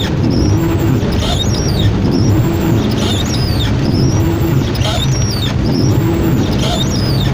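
A car driving through heavy rain: a steady low rumble of engine and road with the hiss of rain, and a short high squeak repeating about once a second.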